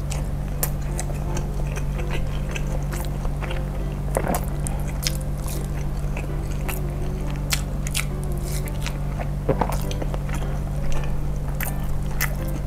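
Close-miked chewing of a mozzarella-stuffed bakso meatball: wet mouth clicks and smacks scattered irregularly, over a steady low hum.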